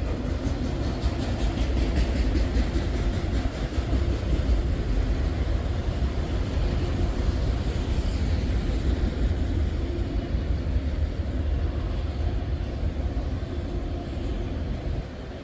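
Freight train cars rolling past, with a steady low rumble of wheels on the rails.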